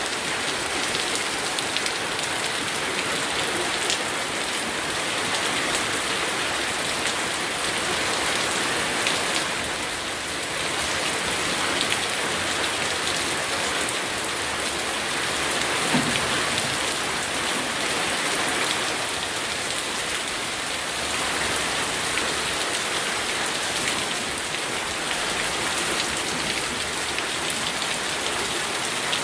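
Rain falling steadily: an even hiss of many drops, with single drops ticking through it.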